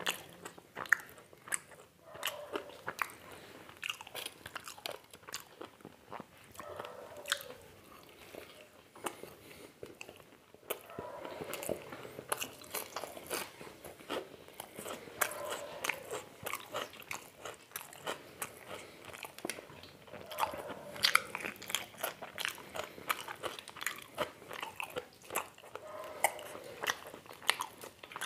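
Close-up mouth sounds of someone eating crisp fried chicken pakoda: irregular crunching bites and wet chewing.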